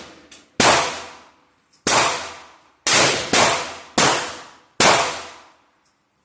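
AK-pattern rifle fired six times in single shots at an uneven pace, two of them in quick succession about three seconds in; each shot is loud and rings out with a fading echo.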